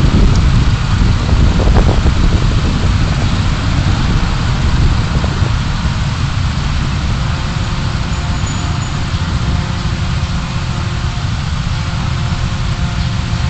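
Car driving noise picked up by a dashcam: a steady low rumble of engine and tyres with road hiss, easing slightly after the first few seconds.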